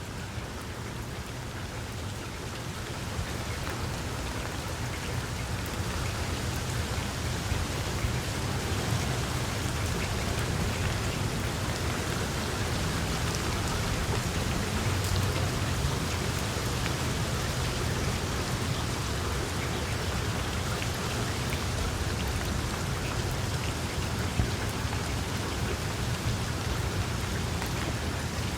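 Steady rain falling, a dense even patter over a low rumble, growing a little louder over the first few seconds and then holding steady.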